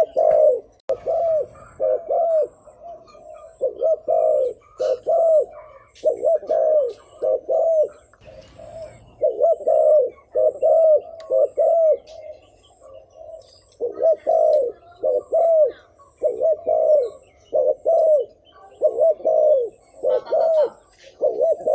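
Spotted dove cooing (the rapid 'gù' coo), with short arched coos repeated in quick runs of two to four, over and over.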